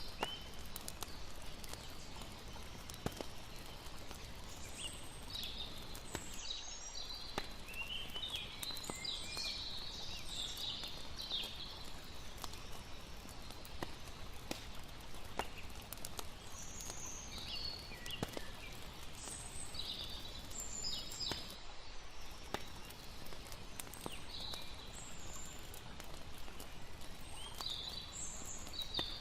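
Layered night ambience: a campfire crackling with scattered sharp pops over a steady hiss of water, with bursts of high chirping calls from animals.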